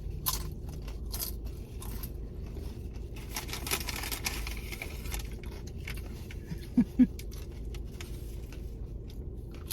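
Eating sounds: crunching of nachos and taco shells with scattered scrapes and crackles of food wrappers, over a low steady rumble.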